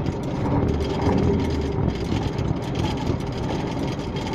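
KAMAZ 5511 dump truck's V8 diesel engine running steadily as the truck drives, a low even drone heard from the cab.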